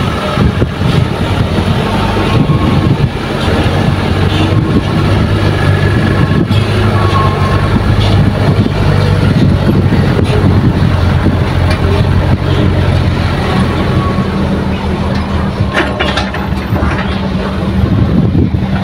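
Heavy diesel engines of an excavator and dump truck running steadily during soil loading, with a few sharp knocks about three-quarters of the way through.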